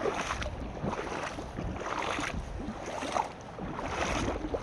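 Footsteps crunching through deep snow in rubber boots, one step after another at a walking pace.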